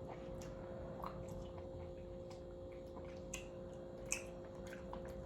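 Quiet room tone with a steady low electrical hum and a few faint, scattered clicks and ticks.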